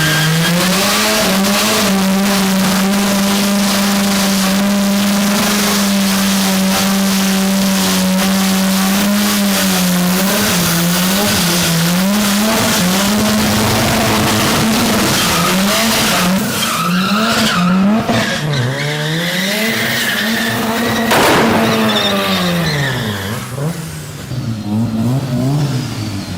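Rotary-engined car spinning its tyres with the tyres squealing. The engine is held at high revs for about ten seconds, then its revs rise and fall repeatedly and sag low near the end.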